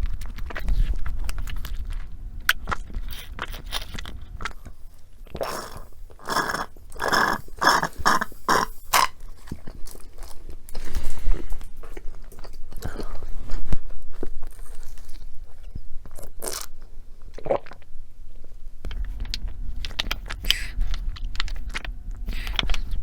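Close-miked eating: a person biting and chewing food with crunching, with a denser, louder run of crunchy bites between about six and nine seconds in.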